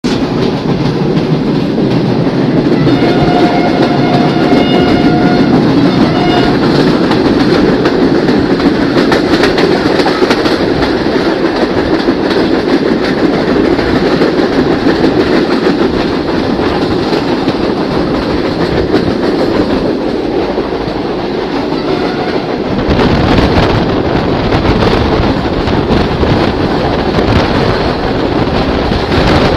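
Passenger train running at speed, heard from an open carriage window: steady wheel-and-track noise. A horn sounds for about three seconds around three seconds in, with a short extra blast just after. The low rumble grows louder from about 23 seconds in.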